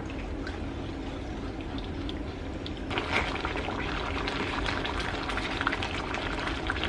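Homemade cream sauce (a flour-and-butter roux with broth and milk) bubbling as it simmers and thickens in a pan. Small popping bubbles grow busier about three seconds in.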